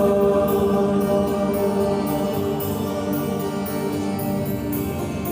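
Church choir singing a hymn in long held chords, with instrumental accompaniment.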